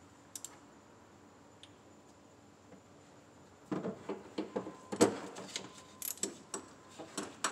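Hand tools clicking and clinking against metal, a quick irregular run of sharp clicks and knocks that starts about three and a half seconds in, the loudest about five seconds in.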